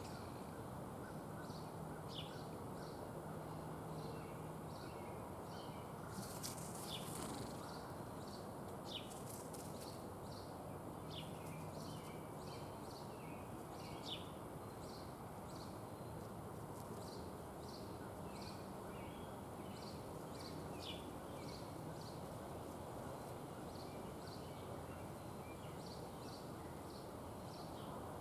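Small songbirds chirping, many short calls and quick downward notes throughout, over a steady background rush of outdoor noise.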